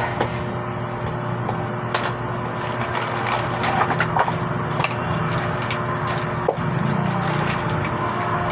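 Steady street background with a low hum, broken by scattered small sharp clicks and taps.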